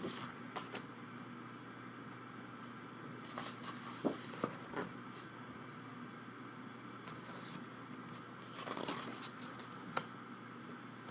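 Glossy pages of a photobook being turned by hand: soft paper rustles and a few light taps and clicks, over a steady low room hum.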